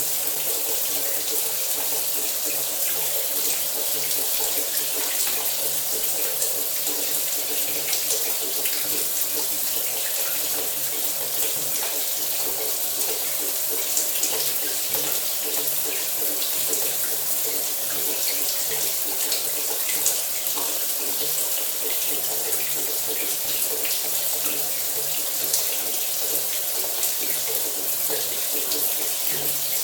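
Shower running steadily, its water spray hissing and splattering, with a faint steady low hum underneath and a few sharper splashes.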